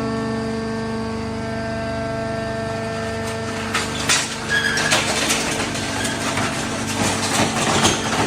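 Vertical baler's hydraulic pump motor running with a steady hum. From about three and a half seconds in, irregular crackling and knocks join it.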